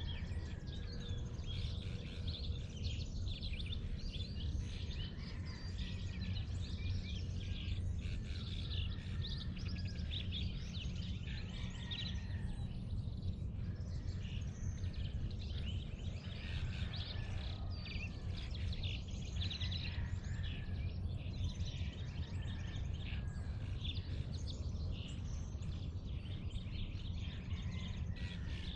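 Dawn chorus of many birds chirping and singing at once, over a steady low rumble.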